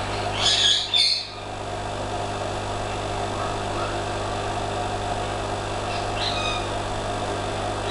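Short, high bird chirps, two close together about half a second and a second in and another near six seconds, over a steady low hum.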